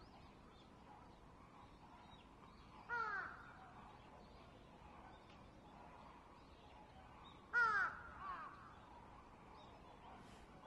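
A bird calling twice, about four and a half seconds apart, each call short and falling in pitch, with a softer call just after the second.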